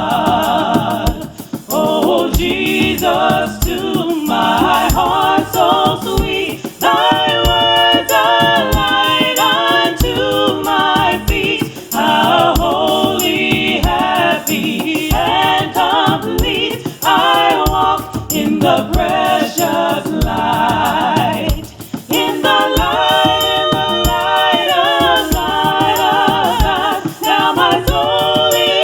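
Gospel choir singing with accompaniment over a steady beat.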